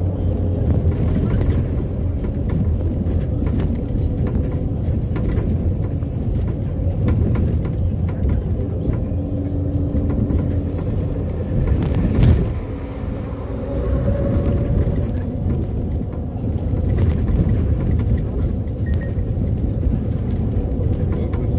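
City bus running along the road, with steady engine and road rumble heard from on board. One loud knock comes about twelve seconds in, after which the noise drops for a moment.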